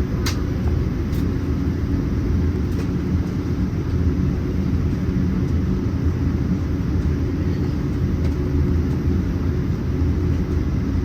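Steady low rumble inside the cabin of a Boeing 787-9 airliner, with a faint click right at the start.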